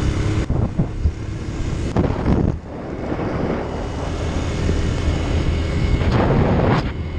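Motorcycle engine running steadily while riding, with wind buffeting the microphone in gusts, loudest about two seconds in and again near the end.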